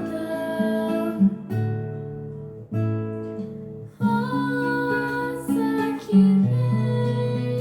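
Music led by a strummed acoustic guitar, its chords changing every second or so, with a softer, thinner stretch in the middle.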